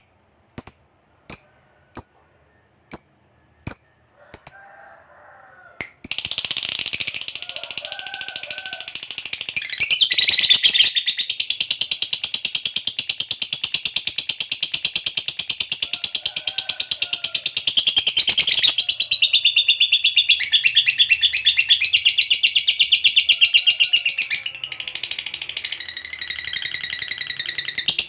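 Lovebird calling: a series of sharp, evenly spaced high chirps, then after a short pause a long, unbroken, rapid chattering trill (the long 'ngekek' that keepers prize) running for about twenty seconds. Fainter, lower calls sound beneath it.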